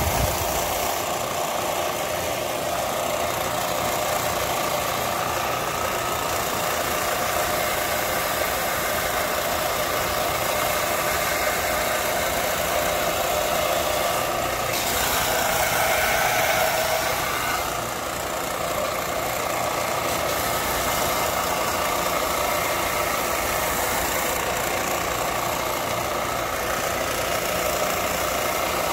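A power tool's electric motor running steadily, its tone changing for a few seconds about halfway through.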